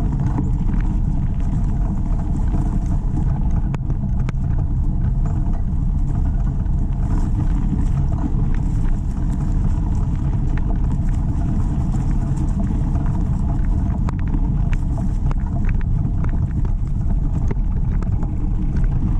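Steady low rumble from riding a bicycle along a dirt trail: riding noise and wind buffeting the microphone, with scattered clicks and rattles as the bike jolts over bumps.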